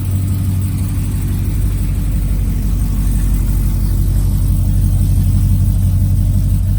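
2010 Corvette ZR1's supercharged 6.2-litre V8 (LS9) idling steadily, with a deep, even engine note.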